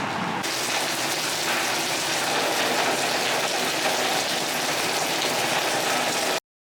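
Steady monsoon rain pouring down in a dense, even hiss, cutting off abruptly near the end.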